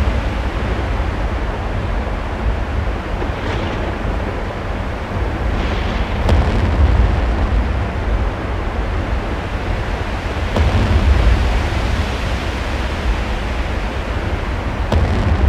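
Steady, loud rumbling noise, heaviest in the deep bass, with a few faint knocks.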